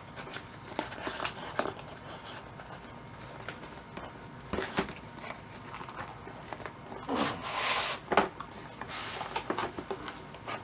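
A cardboard box being handled and opened: scattered light taps and clicks, then a louder rustling scrape lasting under a second about seven seconds in, followed by a sharp knock.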